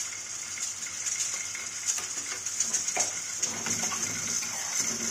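Mutton karahi sizzling and bubbling in a wide metal pan, a steady high sizzle with scattered scrapes and clicks of a metal spoon stirring against the pan.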